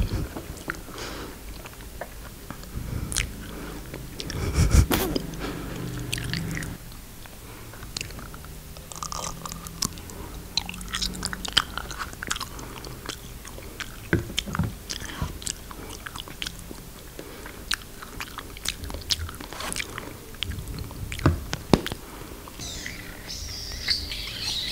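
Close-miked chewing and biting of a soft homemade edible 'glue' eaten from glue-stick tubes: wet mouth clicks and small crackles. A brief high squeaking comes near the end.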